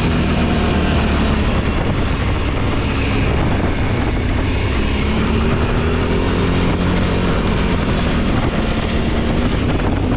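Off-road vehicle engine running steadily at speed, its pitch drifting slowly up and down with the throttle, with wind buffeting the microphone.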